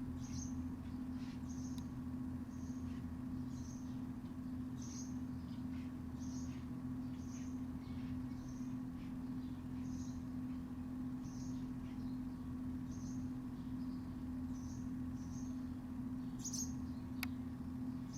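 A small bird repeating a short, high chip note about once a second, over a steady low hum. There is a single sharp click near the end.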